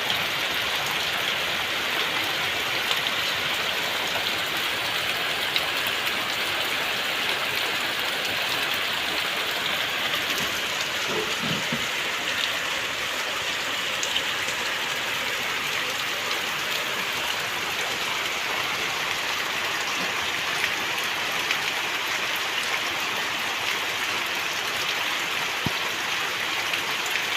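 Steady rain falling, an even hiss of many drops with scattered small drop ticks.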